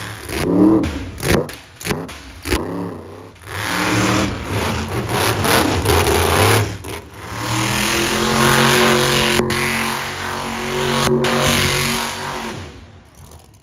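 Monster truck engine revving hard: several short throttle blips in the first few seconds, then a long sustained high-rpm run before it drops away near the end.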